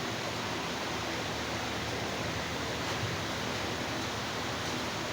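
Steady hiss of background noise, even throughout, with no speech.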